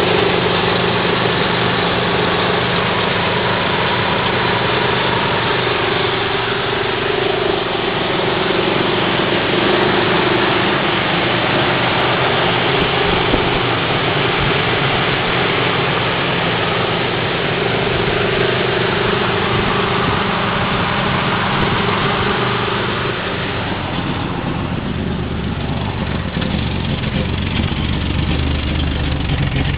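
Subaru XT6's flat-six engine idling steadily after a cold start. About two-thirds of the way through, the sound turns lower and heavier.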